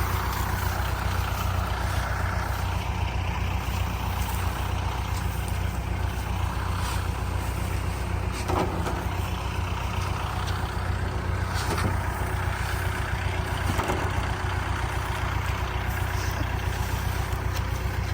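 Rice harvester's engine running steadily with a low, even drone, with a few faint clicks partway through.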